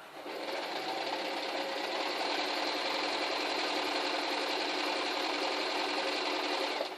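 Domestic electric sewing machine running steadily as it sews a cross stitch through layers of debris netting, starting just after the opening and stopping abruptly near the end.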